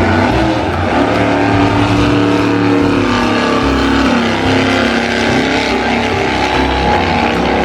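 A motor vehicle engine running with a steady, loud hum, its pitch shifting slightly partway through.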